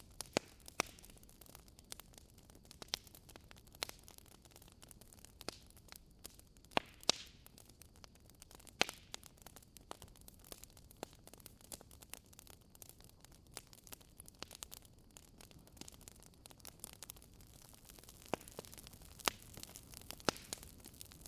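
Wood fire burning in a fireplace: irregular sharp crackles and pops over a soft low hiss, with a few louder pops scattered through.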